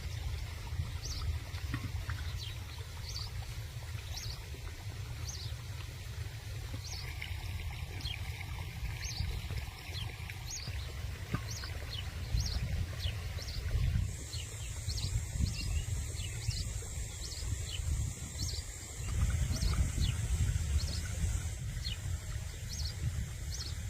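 Outdoor ambience of birds chirping in short repeated calls, about two a second, over a steady low rumble. About halfway through a thin, steady high-pitched whine joins in and stops shortly before the end.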